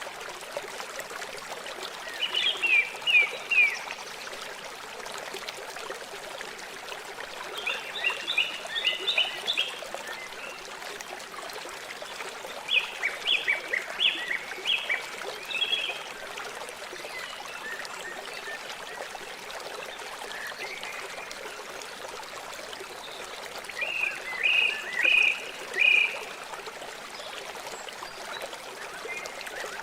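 River water flowing steadily, with a bird singing four short phrases of quick repeated high notes over it.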